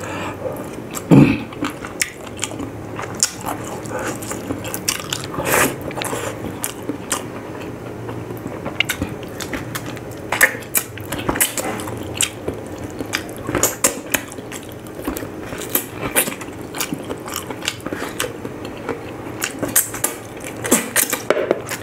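Close-miked eating: a man biting and chewing boiled pork off the bone, with many short mouth clicks and smacks throughout.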